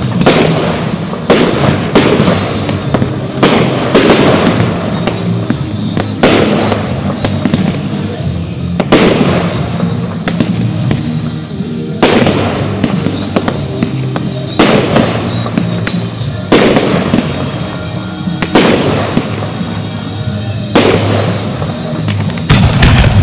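Fireworks shells bursting in the air with sharp bangs, several in quick succession at first and then about one every two seconds, over music with steady low tones.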